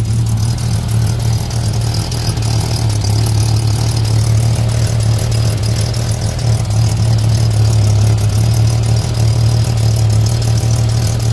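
A 1989 Jeep Cherokee XJ's 4.6-litre inline-six, fitted with a freshly installed Banks Torque Tube header, running at a steady idle. It is heard from beneath the vehicle, close to the exhaust downpipe and flex pipe.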